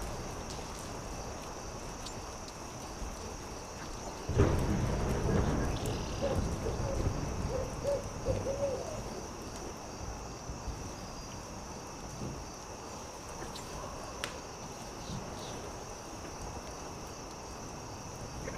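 An owl hooting a quick series of about six short hoots over a low rumble that starts suddenly just before them, with a steady high insect chirring throughout.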